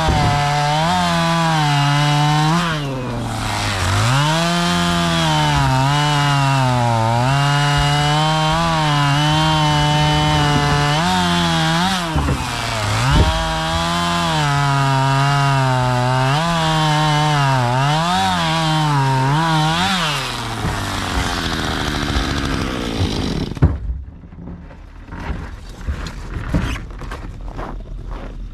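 Chainsaw cutting through logs, its engine pitch dipping again and again as it loads up in the cut and climbing back between cuts. It shuts off about 24 seconds in, and footsteps follow.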